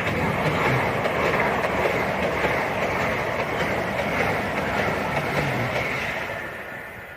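Two coupled Avanti West Coast Class 805 bi-mode trains passing through the station at speed. A loud rush of wheel and air noise swells up at the start, holds for about six seconds and fades away near the end.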